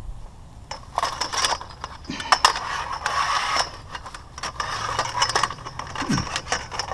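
Scrap being handled and pulled at: a string of sharp clanks, rattles and knocks with stretches of scraping, starting about a second in.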